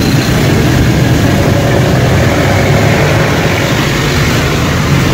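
Motorcycle engine running steadily with road noise, a low even hum with no change in speed.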